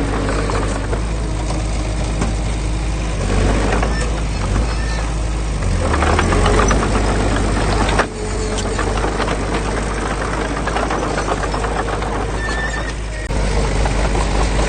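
Heavy construction machinery engines running steadily, a low diesel drone with clattering, louder between about four and seven seconds in. The sound drops suddenly about eight seconds in and rises again about thirteen seconds in.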